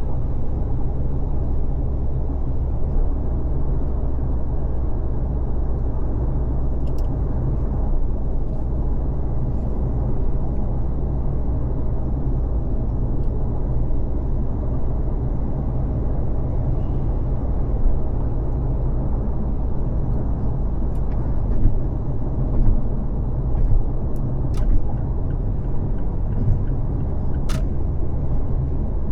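Car driving on a freeway: steady low rumble of tyres and engine, with a few faint, brief ticks.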